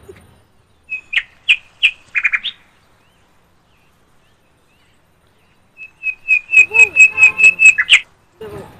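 A bird calling in sharp, high chirps. A few come about a second in, then from about six seconds in a fast, loud run of about ten evenly spaced chirps, around five a second, stops short just before the end.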